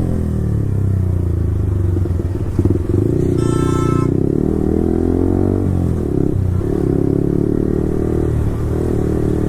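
Yamaha R15 V4's single-cylinder engine through a full-system Akrapovic exhaust, riding with the revs rising and falling and a few brief dips as the throttle or gears change. A short horn toot sounds about three and a half seconds in.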